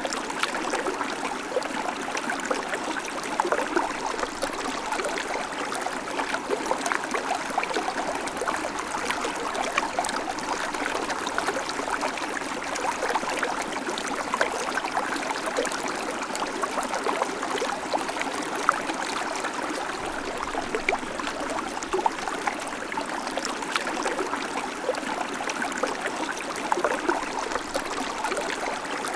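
A babbling creek: shallow water running steadily over stones, a continuous gurgling and trickling with dense small splashes and no change throughout.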